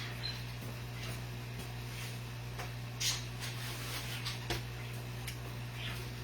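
A few light, scattered clicks and taps, the loudest about three seconds in, over a steady low hum.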